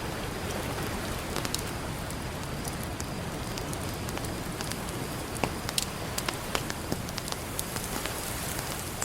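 Campfire crackling with sharp pops, more and louder ones a little past the middle, over a steady wash of ocean surf.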